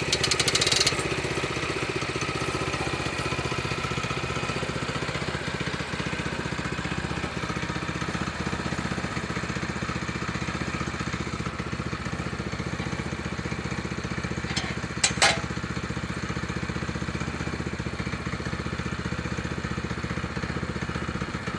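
Small gas engine of a portable sawmill running steadily, not cutting. There is a brief louder rattle in the first second, and two sharp clicks about fifteen seconds in.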